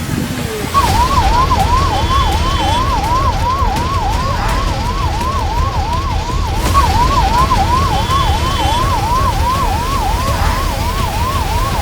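Emergency vehicle siren sounding in a fast rising-and-falling yelp, about two and a half sweeps a second, starting about a second in. It sounds over a heavy low rumble.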